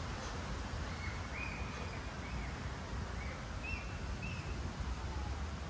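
Outdoor ambience: a steady low rumble, with a bird giving about six short calls in the middle of the stretch.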